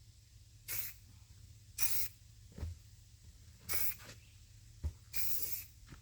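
Aerosol spray paint can sprayed in four short bursts, the last one the longest, with a couple of light knocks in between.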